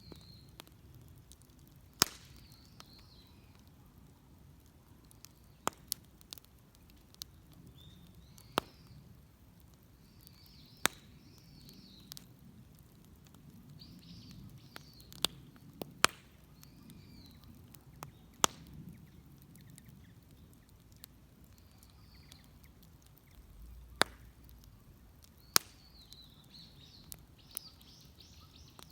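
Outdoor wood bonfire crackling, with sharp, irregular pops every second or two. Small birds chirp faintly.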